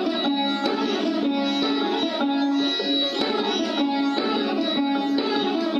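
Indian classical plucked string instrument playing Raag Kirwani: a continuous run of quickly plucked notes around a repeatedly returning low note.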